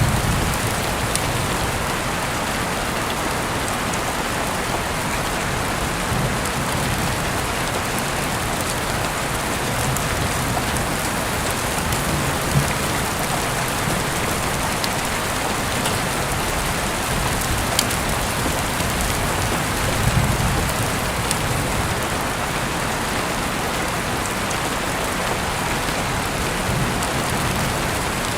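Heavy rain falling steadily, heard through an open window, with scattered drops tapping close by and one sharper drip about twelve seconds in.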